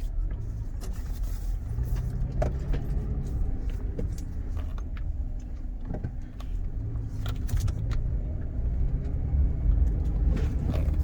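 Car running, a steady low rumble with scattered light clicks and rattles.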